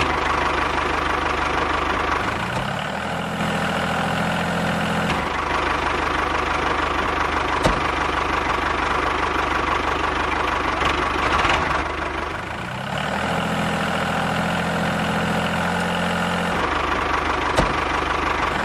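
A diesel tractor engine sound idling with a steady knocking clatter. Twice, about two seconds in and again about thirteen seconds in, a deeper engine note rises and then holds, and there are a couple of sharp clicks.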